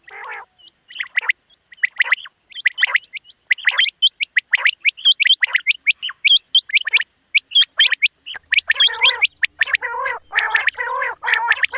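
Quail calling in quick series of sharp, high chirping notes, several a second. From about two thirds of the way in, lower, harsher churring notes join in, about two a second.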